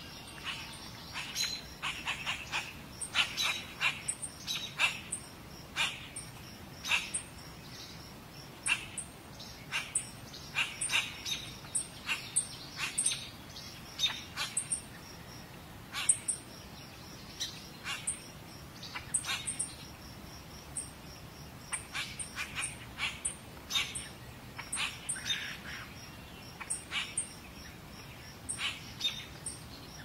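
Birds chirping: many short, sharp calls repeating irregularly, a few per second, with faint high ticks between them.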